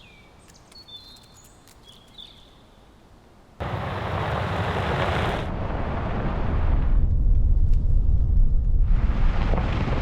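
A few faint bird chirps, then about three and a half seconds in a sudden loud, deep rushing rumble cuts in and carries on, changing in character a few times.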